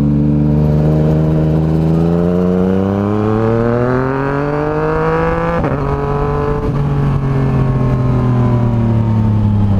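Yamaha MT-09's three-cylinder engine running loud through an aftermarket exhaust under way: the revs climb steadily for about five seconds, break briefly, then hold at a slightly lower pitch and slowly ease off.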